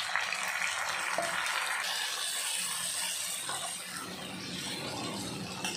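Chopped onions and tomatoes sizzling in hot oil in a frying pan as they are stirred, a steady hiss that eases slightly toward the end.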